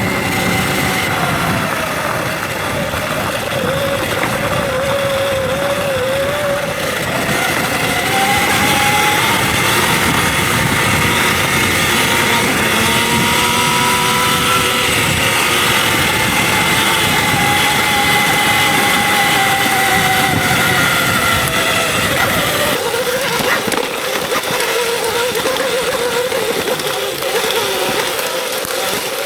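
Electric dirt bike's motor whining on the trail, its pitch rising and falling slowly with throttle and speed, over a steady rush of wind and tyre noise.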